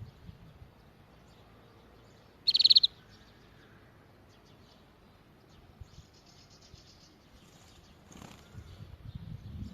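Canary singing a single short, loud trill of rapid notes about two and a half seconds in, followed by a few faint chirps; a low rumble comes in near the end.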